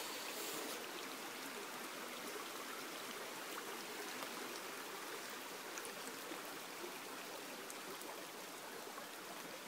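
Small rainforest stream running: a steady, soft rush of flowing water.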